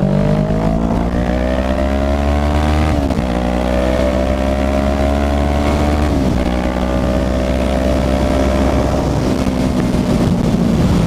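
Kawasaki ER-6n's parallel-twin engine pulling under acceleration, its pitch climbing steadily, with a quick drop for an upshift about three seconds in and another about six seconds in, then running at fairly steady revs.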